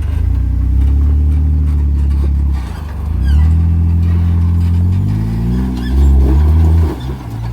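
Jeep engine revving in surges under load as it drives up a rock obstacle. The revs drop briefly about two and a half seconds in, then rise again several times in the second half.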